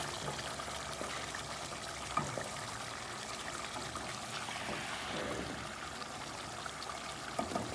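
Steady trickling sound of water or liquid, with a few faint knocks.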